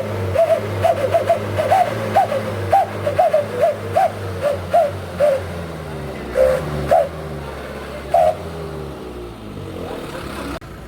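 Light diesel truck fitted with a 'wolf' whistle exhaust, giving short howling chirps that rise and fall in pitch, about two a second, over the engine's steady running. After about five seconds the chirps thin out to three spaced ones and stop by about eight seconds, leaving the engine running.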